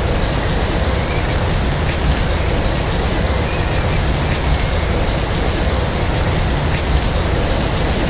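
Steady, heavy rain: a dense, even hiss with a few individual drops ticking through it.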